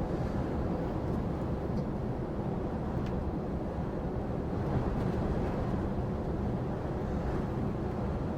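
Steady low engine and road rumble heard from inside a moving lorry cab.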